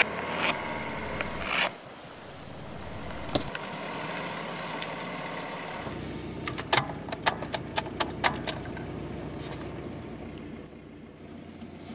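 Car running, heard from inside the cabin as a steady low hum, with a short pitched tone at the start. About six seconds in comes a quick run of sharp clicks from the dashboard controls around the radio and gear lever.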